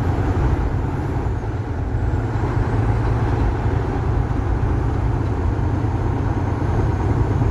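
Semi-truck's diesel engine running steadily in seventh gear, heard from inside the cab, with a low rumble and road noise.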